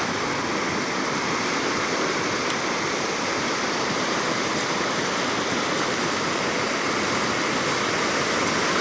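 Steady rushing noise of sea surf breaking on a sandy beach.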